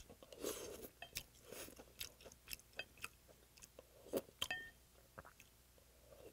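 A person chewing and slurping pieces of stingray stew taken from chopsticks. The sound is close-miked, with many small, wet, irregular clicks from the mouth.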